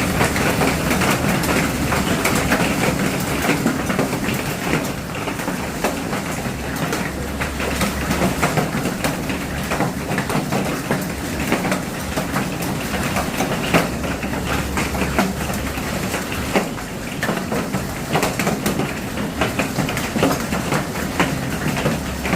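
Hailstones pelting down hard, a steady dense clatter of many small sharp impacts on hard surfaces.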